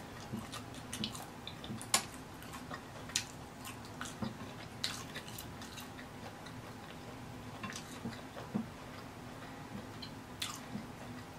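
A person chewing tacos with the mouth closed, close to the microphone: scattered soft wet smacks and clicks of lips and tongue at irregular intervals, the sharpest about two seconds in.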